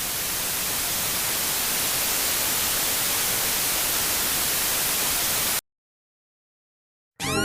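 Steady static-like white noise hiss, swelling up at first and then cutting off abruptly, followed by a second and a half of dead silence before music begins near the end.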